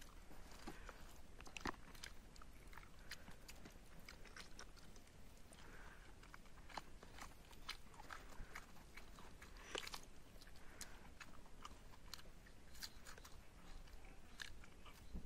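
Faint eating sounds: chewing a mouthful of rice and chicken curry, with scattered soft wet clicks from fingers mixing rice and curry on a dried palm-sheath plate.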